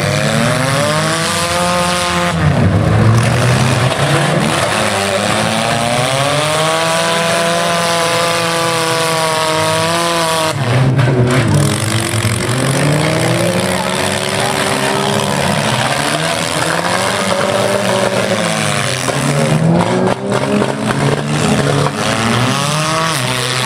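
Engines of several bone-stock compact cars revving up and down, pitch rising and falling again and again, over a steady background of noise.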